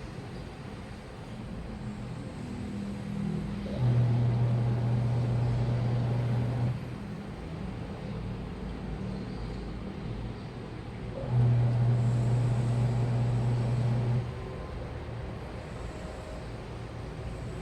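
Washing machine in its wash phase: the motor hums as it turns the drum for about three seconds at a time, twice, about four seconds in and again about eleven seconds in. Between the runs it goes quieter, with only a low rumble.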